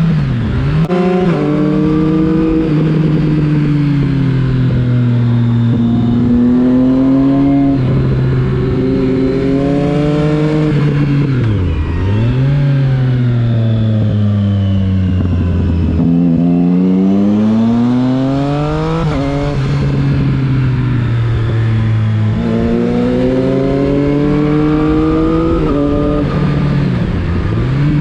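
Triumph Street Triple 675 RX's inline three-cylinder engine under way, its pitch climbing steadily as it accelerates and dropping sharply at each gear change, several times over. A few quick dips and recoveries in pitch mark the throttle being closed and reopened.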